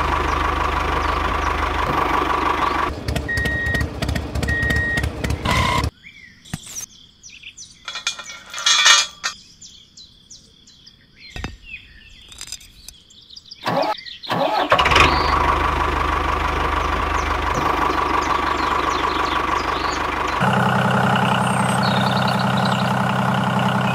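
Small model engine running steadily, with a quieter stretch in the middle of scattered clicks and taps before it runs again.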